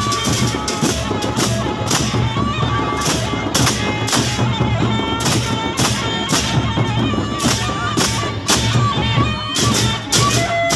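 Gendang beleq ensemble playing: big drums and regular cymbal crashes keep a driving rhythm while a reed pipe holds a bright, nasal melody over them.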